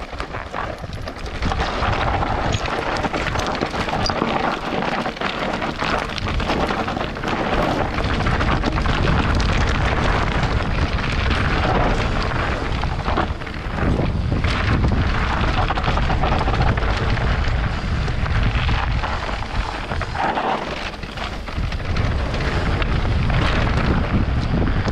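Orbea Rise e-mountain bike descending a dirt and gravel trail: knobby tyres crunching and the bike rattling over bumps, under heavy wind buffeting on the camera microphone.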